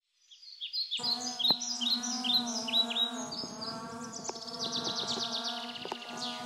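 Birds chirping: a run of short chirps that slide down in pitch, then from about four seconds in a fast trill of quick repeated notes that drops in pitch near the end. A steady low droning tone comes in underneath about a second in.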